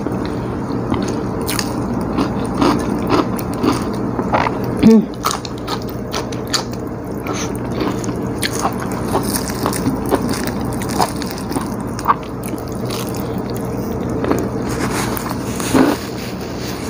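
Close-up chewing and mouth sounds of a person eating rice with vegetables in peanut sauce and crackers by hand: wet smacking with many small crisp clicks, and one louder sharp sound about five seconds in.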